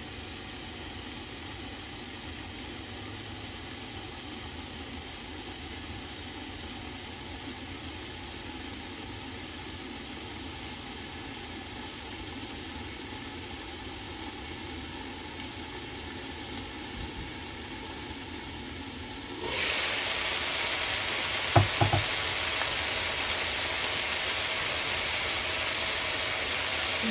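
Sliced bitter melon, tomato and onion sizzling and steaming in a frying pan, quieter under a stainless-steel lid. About two-thirds of the way in the lid comes off and the sizzle turns louder and brighter, followed by a few sharp clinks.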